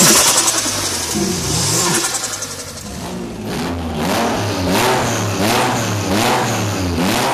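Tuned turbocharged car engine revved in short blips, about one every second in the second half. Each rev ends in a sharp hiss of released boost from the turbo.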